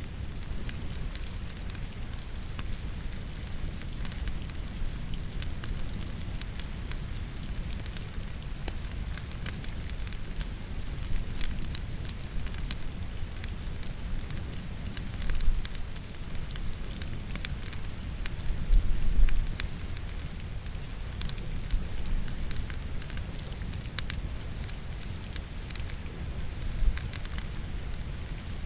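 Firewood crackling in a fireplace, with many sharp little pops, over a steady bed of rain. A couple of louder low thumps stand out, about halfway and about two-thirds of the way through.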